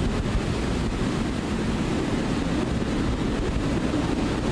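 Category 4 hurricane eyewall winds blowing with a loud, unbroken noise, heavy gusts buffeting the microphone with a deep rumble.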